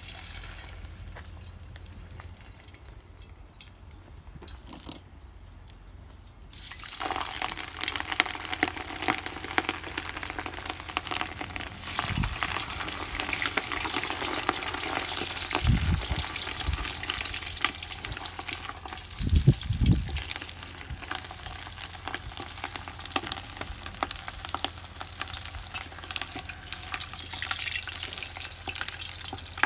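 Stew ingredients sizzling in a cauldron over a wood fire while being stirred with a wooden spoon. The sound is faint at first, then turns into steady, crackling frying from about seven seconds in. A few dull thumps come through in the middle, the loudest about two-thirds of the way through.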